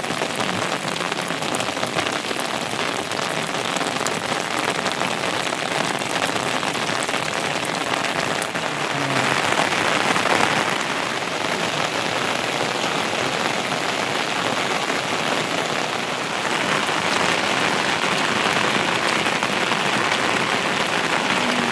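Heavy rain falling steadily, a dense patter of drops on surfaces. It swells heavier about nine seconds in and again past the middle.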